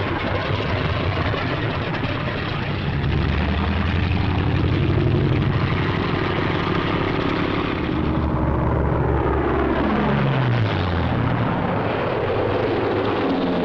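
Piston-engined propeller aircraft droning loudly and steadily; about ten seconds in, the engine note drops in pitch as one of the planes passes by.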